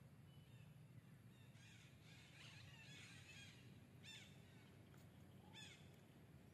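Faint bird calls: a cluster of chirps, then two short calls that slide downward, about a second and a half apart, over a low steady hum.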